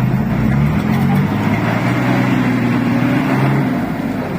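An engine running steadily at moderate revs, its pitch wavering slightly, easing off a little near the end.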